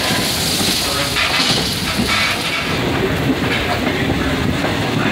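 Railroad passenger coach rolling along the track, its wheels clattering on the rails, with rain hissing over it. The high hiss of the rain fades about two and a half seconds in.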